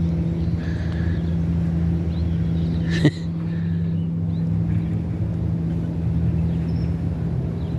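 A vehicle engine running steadily at a constant pitch, with one sharp click about three seconds in.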